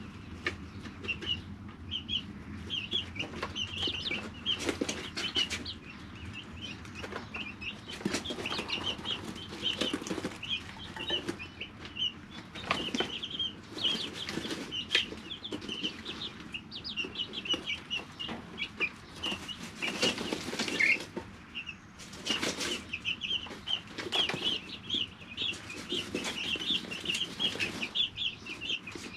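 Three-week-old chicks peeping continuously, many short chirps overlapping, with repeated brief bursts of rustling and wing-flapping among them.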